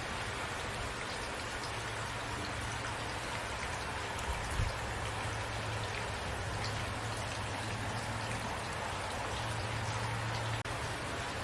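Steady rain falling, with scattered individual drops ticking on a surface over an even hiss of rainfall.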